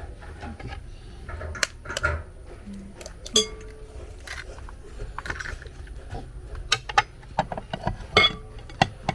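Kitchen utensils and dishes clinking and knocking: irregular sharp strikes, several of them ringing briefly, with a cluster of quicker knocks from about seven seconds in.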